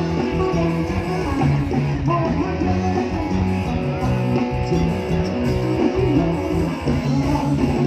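Live band playing an instrumental passage led by guitar, over a bass line and drums.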